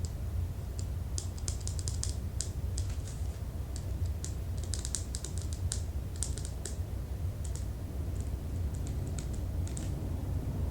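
Typing on a keyboard: quick irregular runs of light key clicks with short pauses between them, over a steady low hum.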